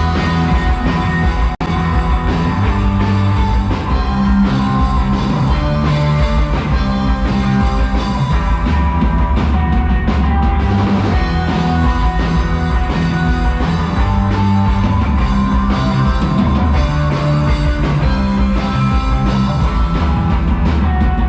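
A live rock band playing: drum kit, bass and electric guitar together in a full, steady instrumental passage with no vocals.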